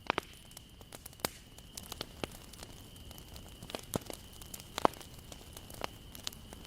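Wood fire crackling, with irregular sharp pops of burning wood; the loudest pop comes about five seconds in.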